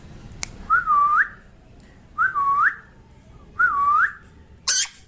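Parrot whistling the same short rising-dipping-rising note three times, evenly spaced about a second and a half apart, followed by a brief harsh burst near the end.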